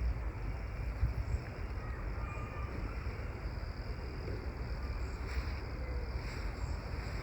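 Outdoor countryside ambience: a steady rushing haze with a low rumble, faint insect chirring high up, and a few short bird chirps.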